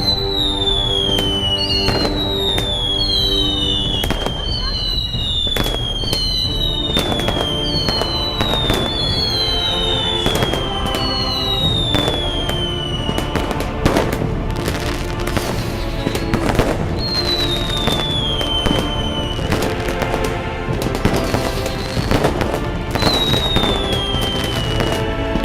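Fireworks going off: a run of sharp bangs and crackles with repeated whistles, each falling in pitch, coming about every one and a half seconds and thinning out about halfway through. Music plays underneath.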